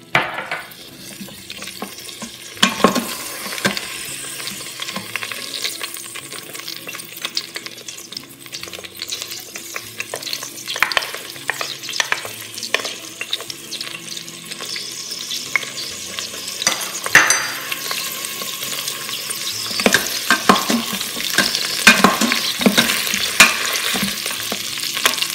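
Oil sizzling steadily around whole new potatoes in an Instant Pot's stainless steel inner pot on sauté as they brown and crisp. A wooden spatula stirs and knocks against the pot now and then, and more often near the end.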